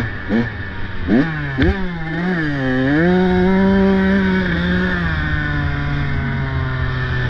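Motorbike engine revved in a few quick throttle blips, then held at higher revs for a couple of seconds before dropping back to a steady idle about five seconds in.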